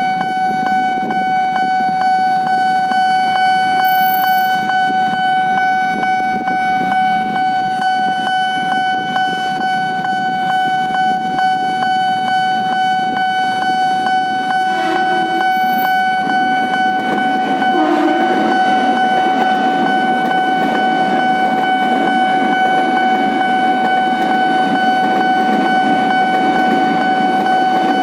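Railway level crossing warning alarm ringing continuously as a steady high electronic tone, over the rumble of vehicles waiting at the crossing. Two short horn toots come about halfway through.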